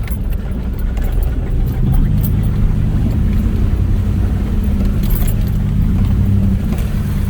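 Off-road vehicle's engine running at low speed with a steady low drone as it crawls over a rocky trail, with light rattling of loose items in the cabin.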